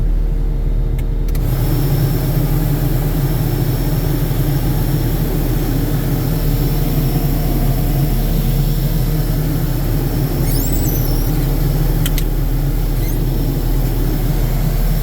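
Case SV280B skid steer's diesel engine running steadily. About a second and a half in, a hiss rises over the engine note. A few brief high squeaks come about ten seconds in.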